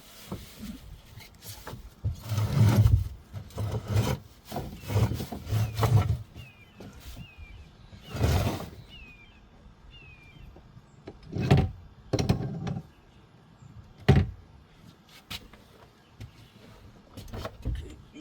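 Irregular thumps, knocks and rubbing from a person climbing down and shifting about inside a boat's hull compartment, with a dense run of thuds in the first few seconds and single sharper knocks later.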